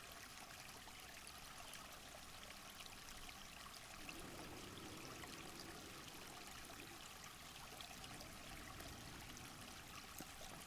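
Faint, steady trickle of a forest stream, with tiny splashing ticks.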